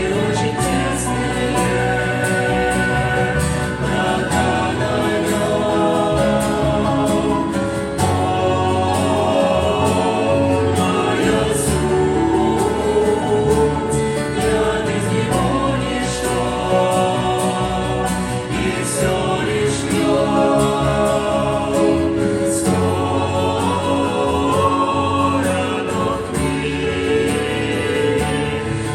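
A choir singing a song in Russian over instrumental accompaniment, with sustained harmonised vocal lines.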